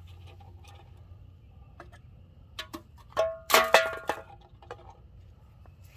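A few light clicks, then about three seconds in a loud clatter of cans being knocked over and hitting one another, with a metallic ringing, lasting about a second.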